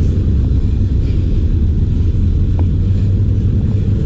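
Steady low rumble of outdoor street background noise, even and unbroken, with a few faint ticks.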